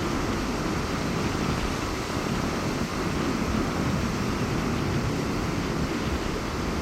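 Sea waves washing onto a beach in strong wind: a steady rushing noise with a low rumble.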